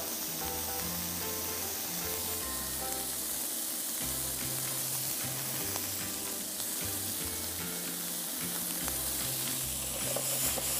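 Broccoli, asparagus and thin slices of cured beef sizzling steadily in an oiled frying pan.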